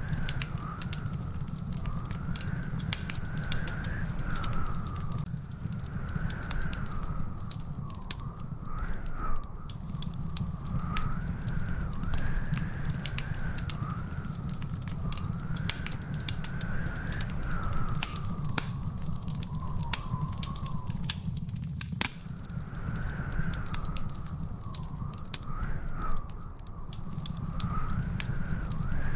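Wood fire crackling in a fireplace, with many sharp pops over a steady low rumble and two louder pops, one about a third of the way in and one near the end. A faint tone wavers slowly up and down alongside it.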